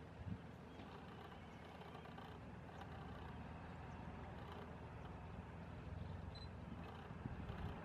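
Steady low outdoor background rumble, with a brief faint high tone about six seconds in.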